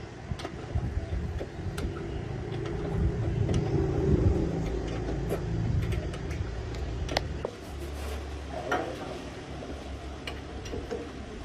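Dump truck's diesel engine running, its sound swelling about four seconds in and settling into a lower, steady hum after about seven seconds, with scattered light clicks.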